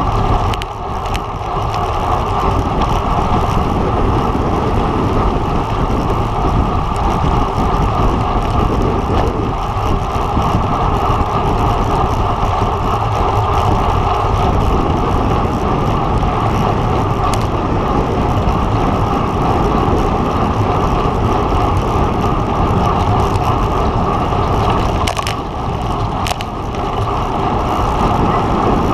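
Steady, loud rush of wind and road noise on the microphone of a road bike being ridden, with a couple of brief clicks about 25 seconds in.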